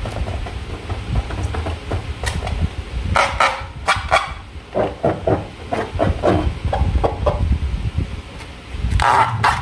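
Slime being handled by hand, giving irregular sticky clicks, crackles and squelches over a low rumble.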